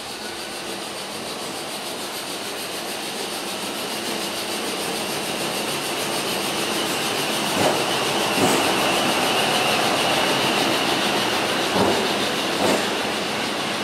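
Multiple-unit passenger train rolling slowly into the platform, its rumble growing louder. Two pairs of clacks from wheels passing over rail joints come about eight and twelve seconds in, and a thin steady squeal is heard from about six seconds on.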